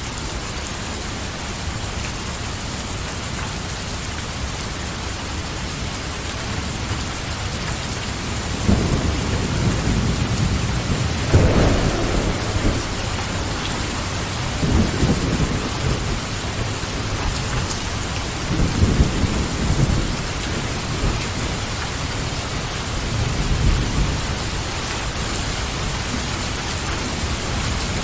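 Steady rain falling, with rolling thunder rumbling in about a third of the way through. The loudest peal comes a few seconds later, and lower rumbles return several more times.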